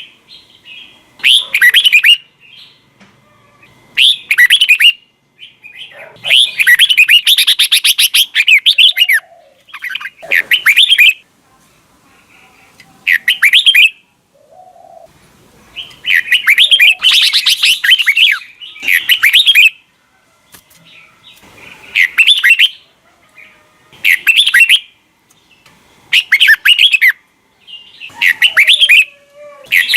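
Red-whiskered bulbul singing: loud, rapid phrases of warbled whistled notes every couple of seconds, two of them stretching to about three seconds.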